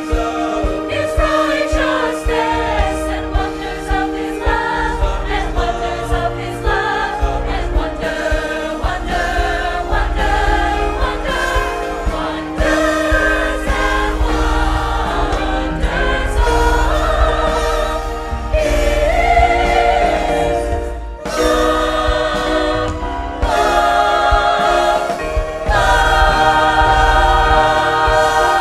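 Church choir singing a Christian song with instrumental accompaniment, swelling into a long held chord near the end.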